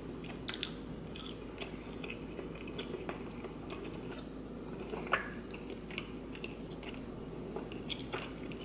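Close-up mouth sounds of a person chewing a mouthful of spicy noodle tteokbokki: soft wet clicks and smacks, one louder about five seconds in.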